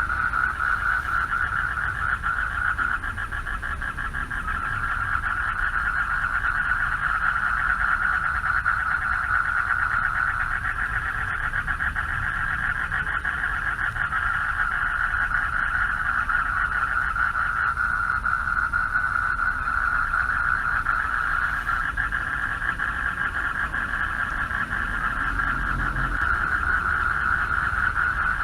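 Chorus of male frogs calling for mates from a pond, a dense, steady mass of fast pulsing calls at a single fairly high pitch, with no pauses.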